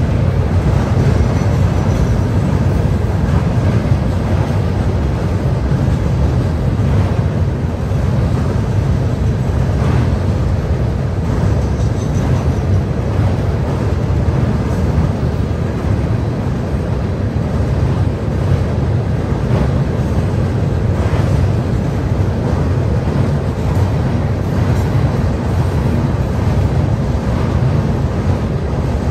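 Freight cars of a Florida East Coast freight train rolling across a steel railroad bridge: a loud, steady, deep rumble of wheels on rail, with occasional faint clicks.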